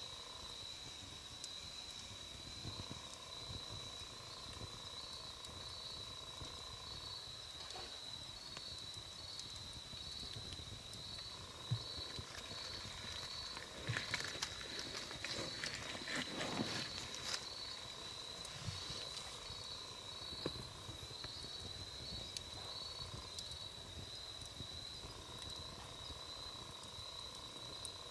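Wood campfire crackling with scattered pops that cluster and grow louder in the middle, over a steady high insect trill.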